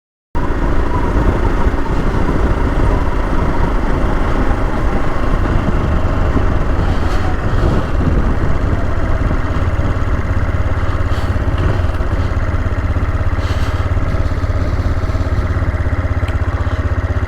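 AJP PR7 motorcycle's single-cylinder engine running steadily, starting about half a second in, with a few faint brief clicks over it.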